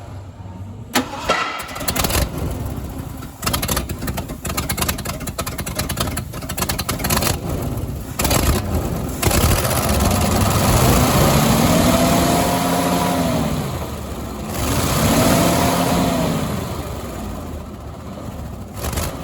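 1976 Ford 361 V8 engine starting and running unevenly for the first several seconds, then revved up twice, its pitch rising and falling each time.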